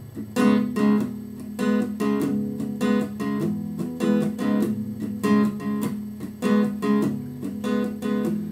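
Acoustic guitar strumming chords in a steady rhythm, the instrumental opening of a song before the vocals come in.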